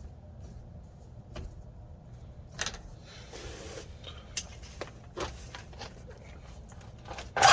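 Clinks and knocks of metal parts being handled and worked loose, with a short scrape about three seconds in and a loud clack near the end.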